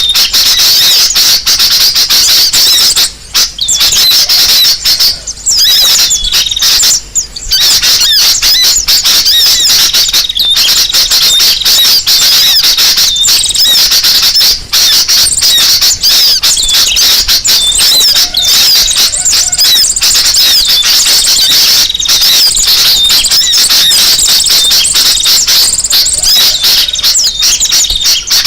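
Bird-lure recording of many small birds chattering and calling loudly all at once: a dense, unbroken stream of rapid high chirps, with a few brief dips early on. A 'noisy' lure call of the kind played to draw wild birds in.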